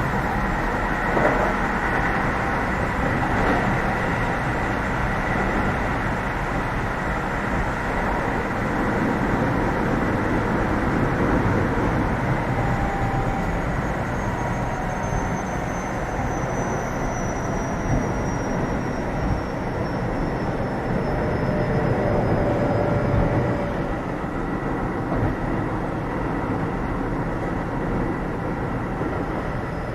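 Cabin running noise of a Keio 7000 series electric train under way: a steady rumble of wheels on rail and running gear. About halfway through, a faint high whine slowly falls in pitch.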